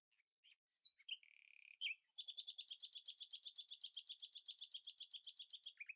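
A small bird calling faintly: a few separate high chirps, then from about two seconds in a fast, even trill of about ten chirps a second that stops just before the end.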